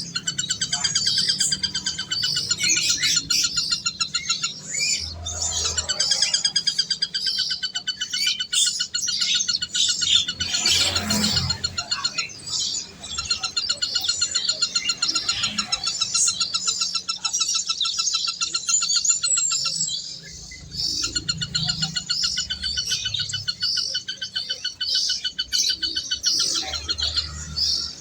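Many birds chirping at once in a dense, continuous chatter of short, quick calls, with a brief lull about two-thirds of the way through.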